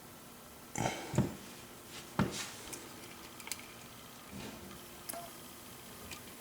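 Scattered small clicks and scrapes of a lock pick working the pins of a 7-pin Corbin Russwin mortise cylinder under tension. The ticks come irregularly, a few every second or so, with the loudest about a second and two seconds in.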